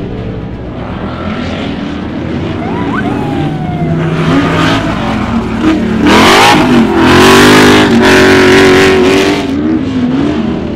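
ULTRA4 off-road race car engines running hard. About six seconds in, one rises sharply in pitch as it revs and gets loudest, holding high revs for a few seconds before easing off.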